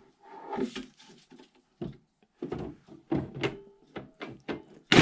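Plastic knocks and clicks of a 60-volt battery being handled and pushed down into the battery compartment of a Kress KG471 snowblower, a string of separate clunks with the sharpest near the end.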